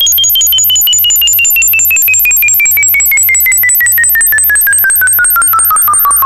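Electronic frequency track of pure tones: a steady very high tone, one tone gliding slowly upward and another gliding steadily downward, all pulsing rapidly, over a low rhythmic throb and faint shifting mid-range tones.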